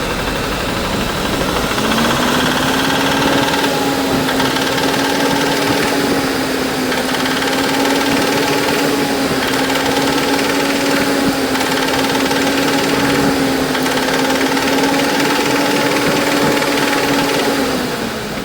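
Ford Ranger 2.3-litre four-cylinder engine running with the abnormal engine noise its owner is showing. The pitch rises about two seconds in, holds steady, and drops back near the end.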